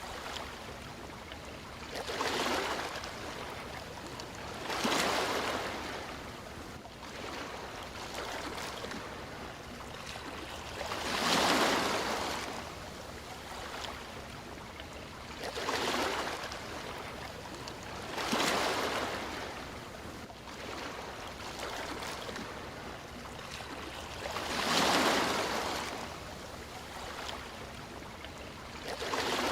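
Sea waves breaking and washing in. A surge of surf swells up and dies away every few seconds at an uneven pace, over a steady hiss of water.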